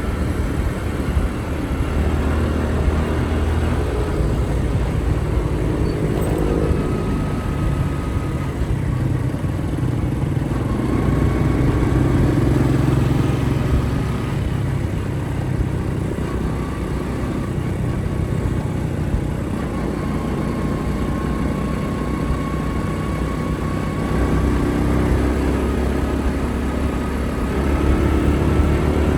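Motorcycle engine running while riding, its pitch rising and falling with speed.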